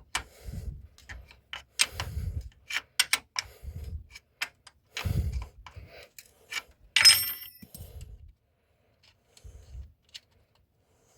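Small metal hardware and hand tools clinking and knocking as they are handled, in irregular clicks with dull thumps, and one bright ringing metallic clink about seven seconds in.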